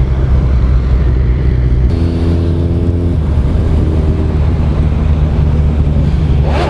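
Suzuki Hayabusa motorcycle engine running steadily while riding, with wind on the microphone. About two seconds in, a higher, steady engine note joins for about a second.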